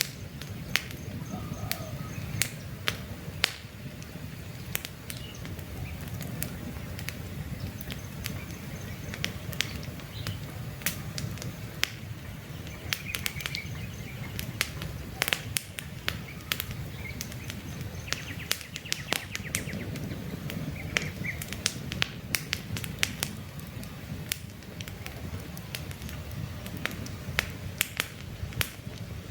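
Wood campfire crackling and popping steadily, with many sharp snaps over a low rumble of flame. Birds chirp faintly now and then in the background.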